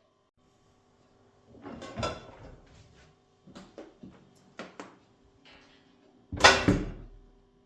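Household handling sounds: a scrape, then a few light clicks and knocks, then a heavy thump about six seconds in, over a faint steady hum.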